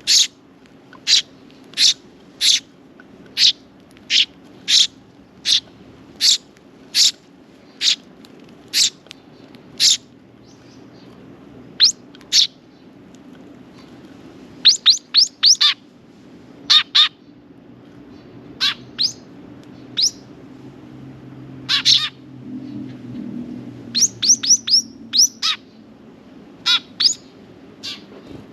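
Sparrows chirping: one short, high chirp repeated steadily about every 0.7 seconds for the first ten seconds, then scattered chirps and quick runs of four or five chirps.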